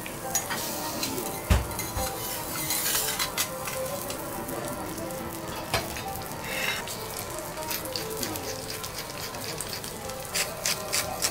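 Small pieces of beef fat sizzling as they render in a pool of oil on a hot steel teppanyaki griddle, with a couple of sharp knocks about 1.5 and 6 seconds in. Near the end, quick clicks of a hand pepper mill grinding.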